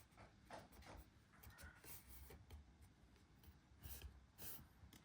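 Faint rustling and light tapping of card stock being handled and pressed together.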